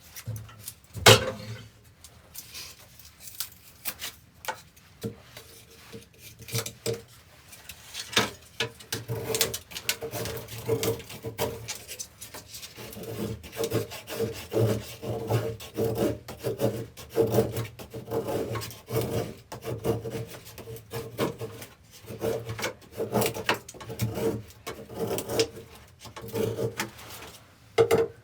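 A hand tool rasping back and forth on wood in steady, even strokes, about one to two a second, after a single sharp knock about a second in.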